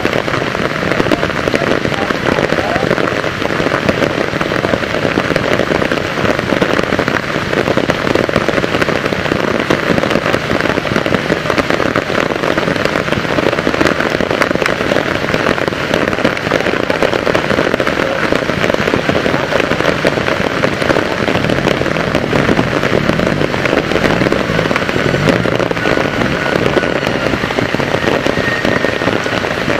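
Heavy rain falling steadily, a dense crackling patter of drops.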